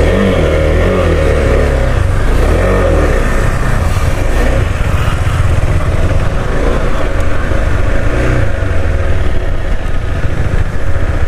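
KTM 390 Adventure's single-cylinder engine pulling away and riding at low speed, the revs rising and falling in the first few seconds before settling into a steady run.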